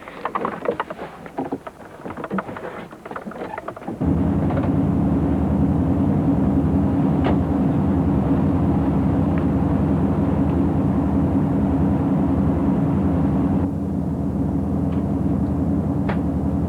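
Patrol boat's engines running with a steady low drone, which cuts in suddenly about four seconds in after a few seconds of quieter, irregular noise.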